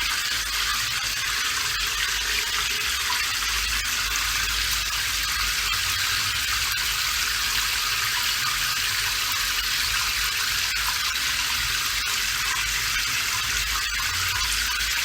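Steady rainfall: an even hiss of rain with faint scattered drop ticks and a low rumble underneath.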